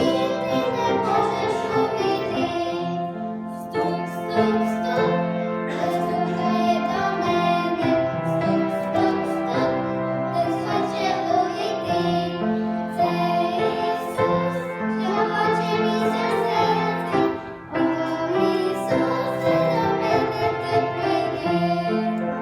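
A song: a singing voice over musical accompaniment, in phrases with brief breaks.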